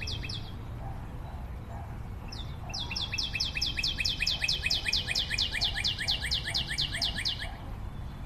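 A songbird singing a fast trill of short, high notes, each falling in pitch, about five or six a second. A brief burst comes right at the start, and a longer run of about five seconds begins about two and a half seconds in, over a low steady background rumble.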